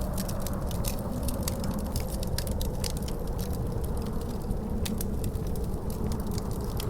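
Wood fire crackling in a fireplace, with many quick sharp snaps, over the steady low rumble of storm wind and a faint howl slowly sliding down in pitch.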